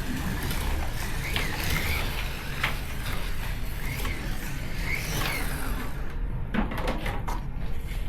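Slot car running laps on a plastic track: its small electric motor whines, rising and falling in pitch as it speeds up and slows for the corners, over the rumble of the wheels on the track. About six seconds in the motor stops, followed by a few clicks.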